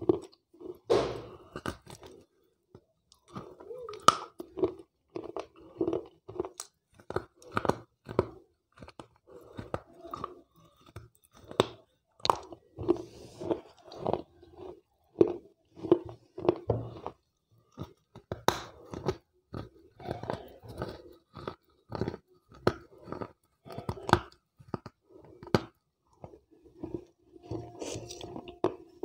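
Wet slate pencils being bitten and chewed close to a clip-on microphone: a continuous run of sharp crunches, several a second, between stretches of chewing.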